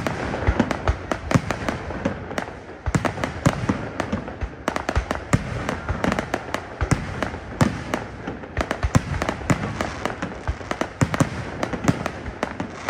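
Fireworks display: aerial shells bursting one after another, many sharp bangs a second overlapping with no let-up.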